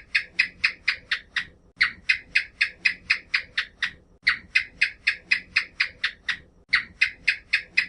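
An animal's rapid, repeated high chirping calls, about four to five a second, in runs broken by brief pauses.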